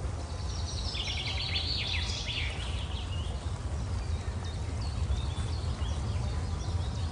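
Birds chirping and trilling, busiest about one to three seconds in, over a steady low rumble.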